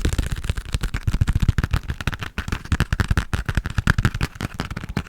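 Fast, aggressive tapping on a passport close to a sensitive microphone: a rapid run of many taps a second, each with a low thud.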